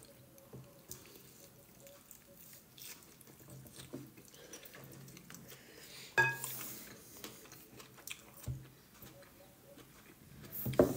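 A man chewing a mouthful of leafy salad with cucumber and tomato: faint, soft crunching and wet mouth sounds, with a sharper click about six seconds in and a brief louder sound near the end.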